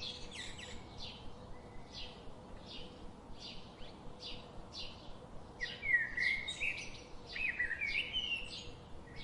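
Small birds chirping: a steady run of short high chirps about two a second, with louder twittering phrases breaking in about six seconds in and again a second or so later.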